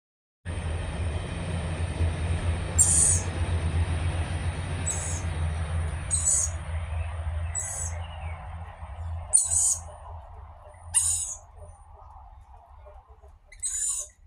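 Birds giving short, high-pitched calls, repeated about every one to two seconds, over a low rumble that fades out about ten seconds in.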